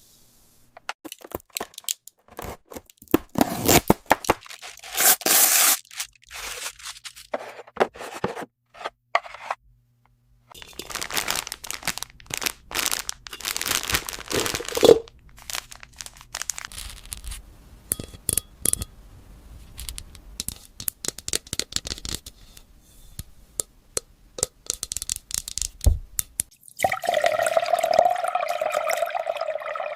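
Toy packaging being torn and crinkled open and small plastic toy pieces clicking and scraping as they are handled, in irregular bursts. Near the end a steady buzzing tone starts up.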